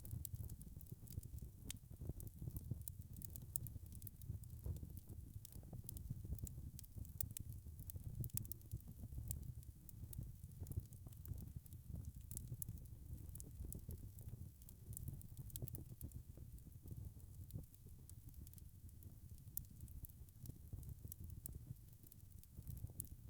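Burning logs crackling in a fireplace: frequent small, sharp pops and snaps, scattered irregularly over a low, steady rumble of the flames.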